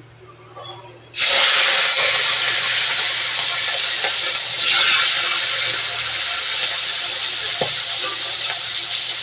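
Prawns rubbed with salt and turmeric going into hot oil in a kadai: a sudden loud sizzle about a second in that settles into a steady frying hiss, slowly easing, with a brief flare-up about halfway through.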